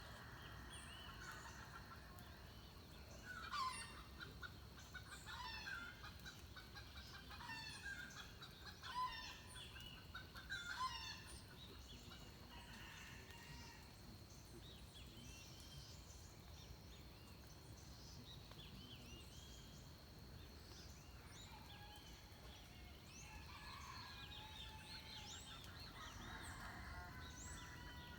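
Birds calling at dawn: a run of louder calls repeated about every one to two seconds through the first ten seconds or so, with many softer chirps throughout and a steady high-pitched whine underneath.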